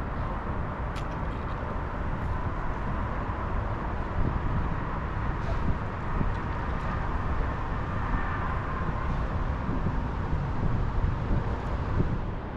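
Box truck engine running at low speed while it manoeuvres back and forth in a multi-point turn, heard as a steady low rumble.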